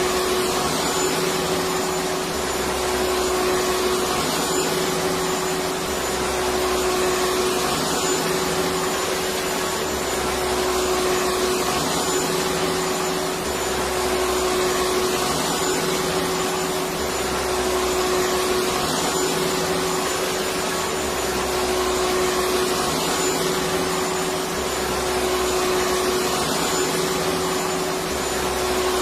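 Electric vacuum cleaner running continuously with a steady whine and a constant hum under its rushing air noise. A faint low throb swells and fades every two to three seconds.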